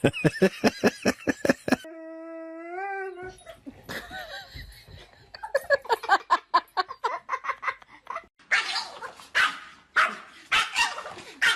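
Dog yipping in quick succession, then a held whining note about two seconds in; later more quick yips, and near the end louder barks, about two a second.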